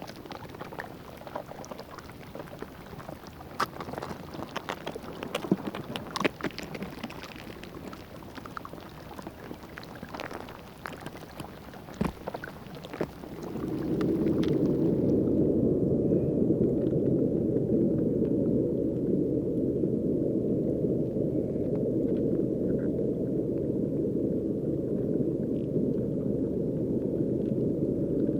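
River water in spring thaw: lapping water with many small clicks and ticks. About halfway through, a louder, steady, muffled rush of water takes over.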